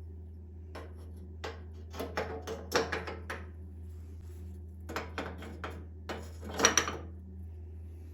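Household items being handled: two runs of clicks, knocks and light clatter, the loudest knocks about two-thirds of the way in, over a steady low hum.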